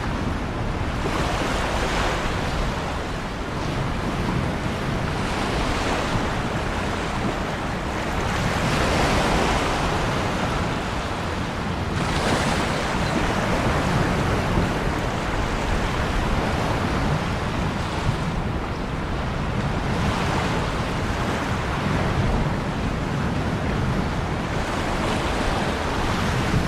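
Ocean waves breaking and washing in, a continuous surf noise with surges every few seconds.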